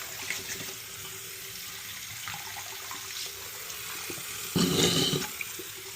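Tap water running steadily into a sink as a furnace condensate drain trap is flushed out under it, with a brief louder burst of sound about four and a half seconds in.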